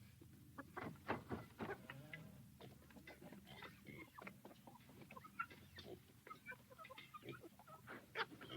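Farmyard ambience of chickens clucking, with other livestock calling now and then, many short calls scattered throughout over a faint low hum.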